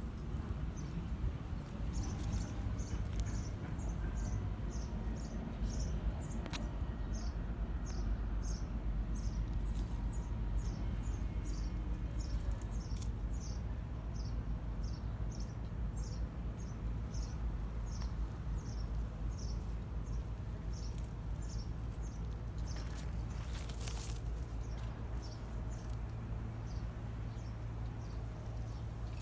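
A small bird giving a long run of short, high-pitched chirps, about two a second, that stops about three quarters of the way through, over a steady low rumble.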